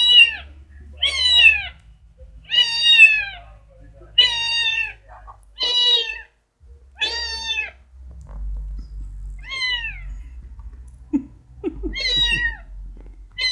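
A young female cat meowing repeatedly: about eight calls of about half a second each, every one to two seconds, each falling in pitch at the end, with a longer pause about halfway through.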